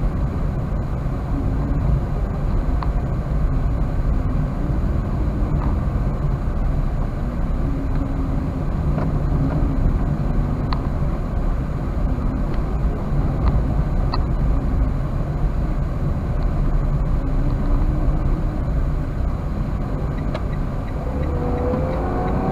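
Steady engine and road noise inside a Toyota Wigo's cabin while it is driven at an even speed, with a faint engine hum over a low rumble.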